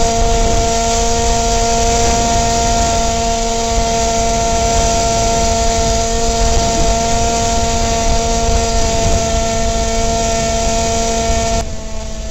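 Electric R/C airplane's motor and propeller whining steadily in flight, over wind rumble on the microphone. Near the end the whine thins out and drops in level.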